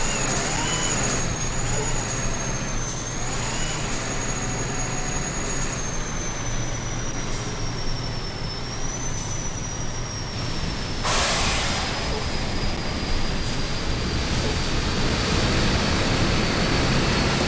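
Truck on the move: a steady low engine and road drone under a thin high-pitched whine that slowly drifts in pitch, with a short burst of hiss about eleven seconds in.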